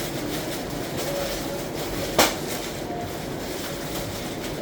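A steady mechanical rumble and hiss with one sharp knock about two seconds in.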